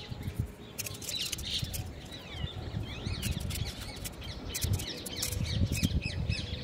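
Small birds chirping over and over in short, quick rising and falling calls, with scattered light clicks and a low rumble of handling noise underneath.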